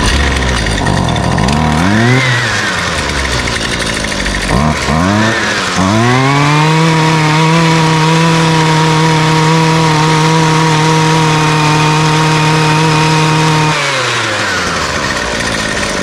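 Husqvarna two-stroke string trimmer engine started on choke after priming: it catches and revs up and down briefly twice, then runs at a steady high speed for about eight seconds before its pitch falls away.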